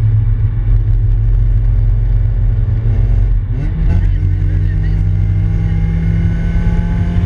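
Honda B18C1 1.8-litre DOHC VTEC four-cylinder engine in a Civic hatchback, heard from inside the cabin while driving. It runs steadily, dips briefly and climbs in pitch about three and a half seconds in, then rises slowly as the car pulls.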